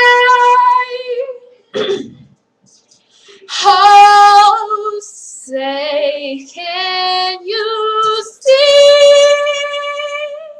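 A young female voice singing a cappella: a few phrases of long, held notes, separated by short pauses.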